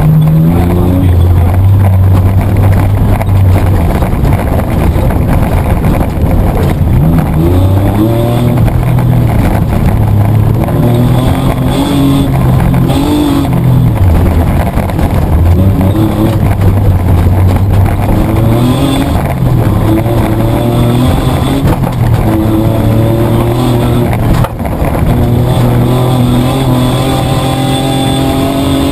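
Mitsubishi Triton's petrol engine heard from inside the cab while racing off-road, the revs climbing and dropping again and again with gear changes and lifts off the throttle. There is one sharp knock about three-quarters of the way through.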